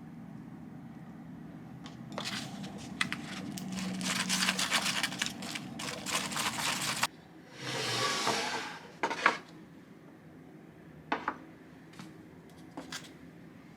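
Small objects being handled: irregular rustling, crinkling and light clattering for several seconds, a short hiss about eight seconds in, then a few separate clicks and taps.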